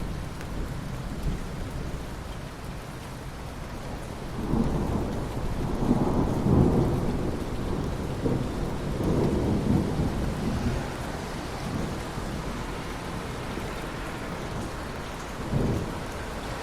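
Steady rain with rolling thunder: a long low rumble builds about four seconds in and rolls on for several seconds, then a short, sharper rumble comes near the end.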